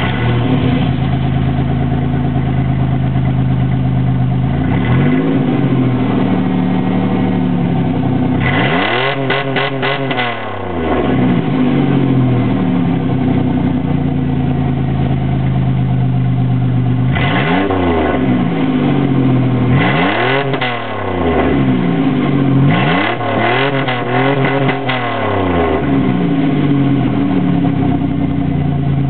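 1998 Dodge Grand Caravan's V6 engine running through a straight-piped exhaust: a steady idle, blipped several times with quick revs that rise and fall back, the biggest ones around nine seconds in and in a cluster between about twenty and twenty-five seconds.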